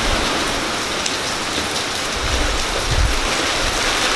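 Heavy hurricane rain pouring steadily, a dense even hiss, with low gusty rumbles on the microphone near the start and again about three seconds in.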